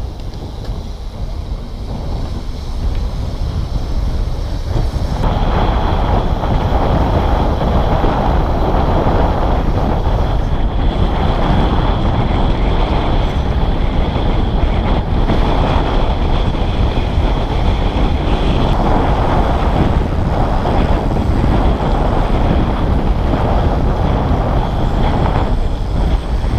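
Wind buffeting the camera microphone, with a hardtail mountain bike rattling over rough trail on a fast descent; the rush grows louder about five seconds in as speed picks up.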